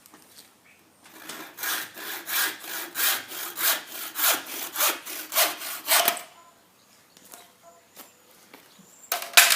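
Hand saw cutting through a piece of softwood for a handle wedge, in quick back-and-forth strokes about three a second that stop after about five seconds. A sharp knock follows near the end.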